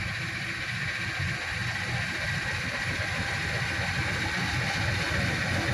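Steady vehicle rumble, growing slowly louder.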